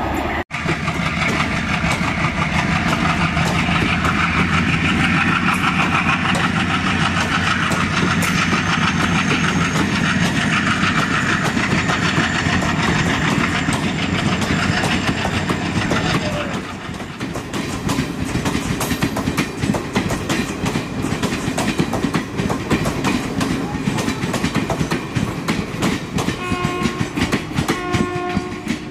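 Passenger train passing at speed, its coaches rumbling and the wheels clattering over rail joints. The noise eases about halfway through while the rapid clatter of the wheels goes on. Near the end a horn sounds two short blasts.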